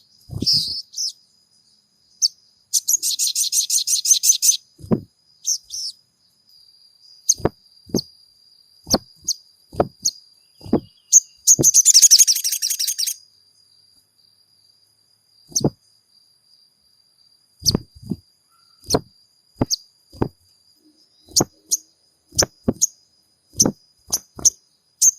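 Sogon sunbird calls: a series of short sharp chip notes at irregular intervals, with two rapid, high, buzzy trills about 3 s and 11 s in, over a faint steady high-pitched tone.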